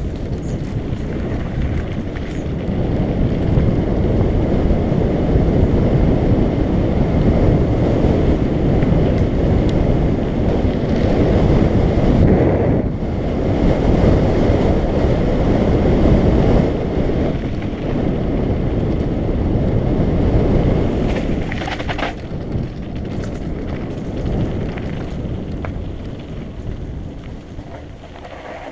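Wind buffeting a GoPro action camera's microphone while riding a mountain bike, a loud low rumbling rush with road noise under it. It is loudest in the middle and eases near the end.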